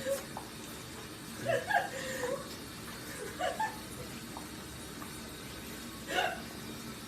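A few short, squeaky vocal sounds, the loudest about a second and a half in and another near the end, over a steady hiss.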